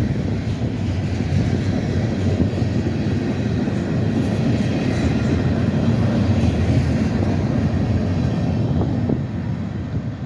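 Freight train rolling past: a steady rumble and rattle of steel wheels on the rails, dipping slightly near the end.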